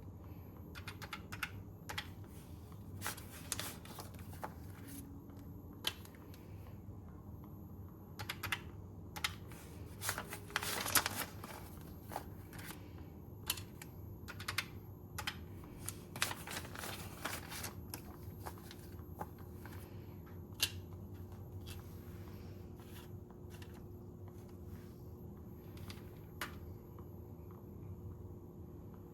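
Paper banknotes being handled: scattered flicks, taps and rustles, with a longer stretch of rustling about ten seconds in.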